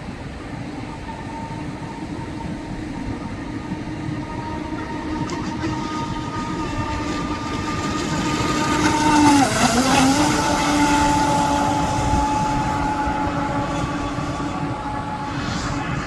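Radio-controlled model boat's motor running with a steady whine that grows louder as it comes closer. About ten seconds in, at its loudest, the pitch dips briefly and then recovers, and the sound eases off a little toward the end.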